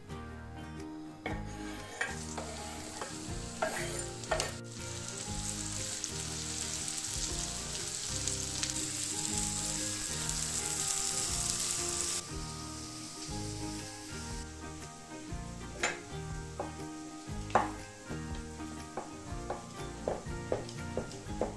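Sliced red onion and garlic sizzling in melted butter in a frying pan, a steady hiss from about five seconds in that stops suddenly about halfway through. Before and after it, a kitchen knife knocks on a wooden cutting board in separate sharp taps, slicing button mushrooms near the end.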